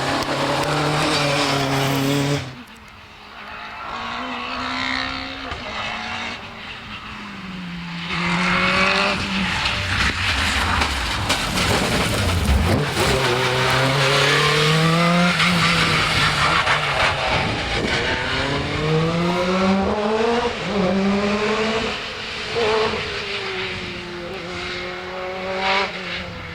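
Rally car engines driven at full attack, revs climbing hard and dropping again through a run of gear changes. A sudden drop in level about two and a half seconds in marks a cut to another car.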